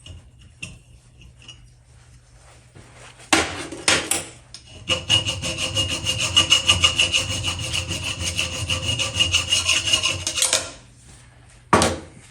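Fast back-and-forth rasping strokes of metal being worked by hand, several strokes a second with a high ringing tone through them, lasting about six seconds. A few short clatters come before the strokes, and one more comes near the end.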